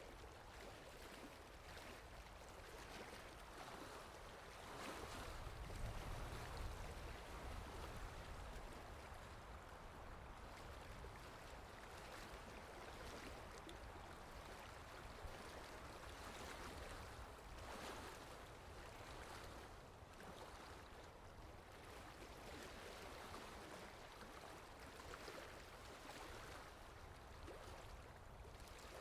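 Water lapping gently, with wind. Quiet and even, in soft irregular swells, and louder with a low rumble for a few seconds about five seconds in.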